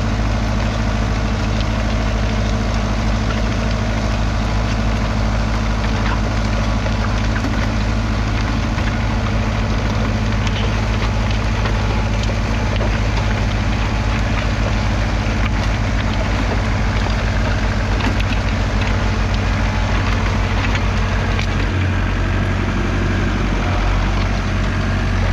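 1976 Fiat 640 tractor's 3.5-litre four-cylinder diesel engine running steadily, its note shifting to a different engine speed about 22 seconds in.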